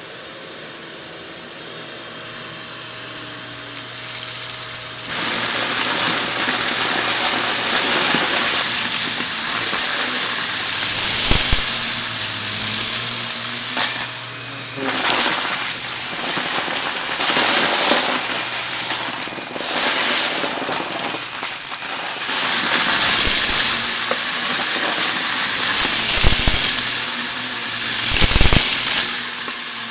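Vacuum cleaner sucking up dry, crunchy debris, a dense crackling hiss over the motor's hum. It jumps much louder about five seconds in and dips briefly twice along the way.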